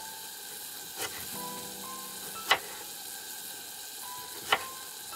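Onion and green pepper sizzling steadily in a pressure cooker pot on a gas stove, with a splash of water just added. Over it, a kitchen knife cuts through a tomato onto a wooden cutting board: a light tap about a second in, then two sharp knocks about two seconds apart.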